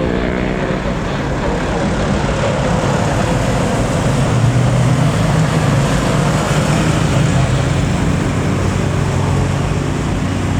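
Jet airliner's engines roaring as it passes low nearby, loudest about halfway through and then slowly easing.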